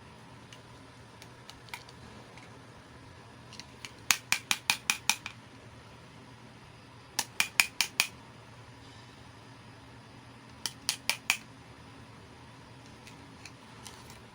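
Scissors snipping in three quick runs of about four to seven snips each, with a few lighter clicks in between.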